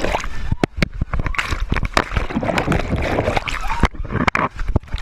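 Water sloshing and splashing, with many sharp knocks and clicks over it.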